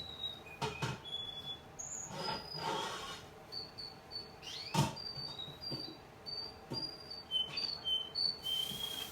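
Young male Russian canary singing a string of short, clear, high whistled notes, with scattered clicks and knocks. A steady hiss comes in near the end.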